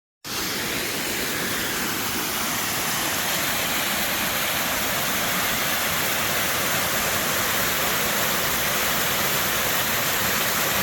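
Steady rushing of a waterfall, a dense even roar of falling water that starts abruptly a moment in.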